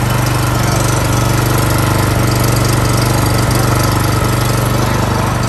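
BCS 710 two-wheel tractor's small pull-start gasoline engine running steadily at low throttle, just after a cold start with the choke now turned off.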